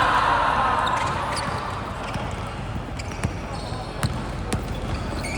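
Basketball game: players' shouting voices fade over the first second, then a few sharp thuds of the ball bouncing on the court.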